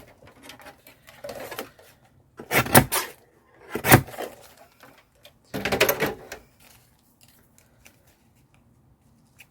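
Handling noises of craft work on a table: a few sharp knocks and clatters with some rustling, in three main clusters around the middle.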